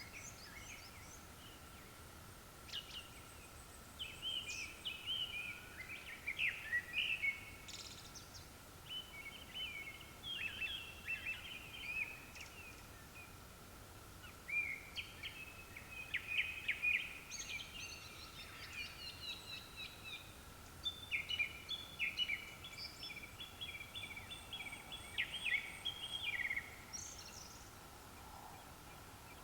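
Japanese thrush singing: a run of short, varied whistled phrases, repeated with brief pauses, over a faint steady high tone.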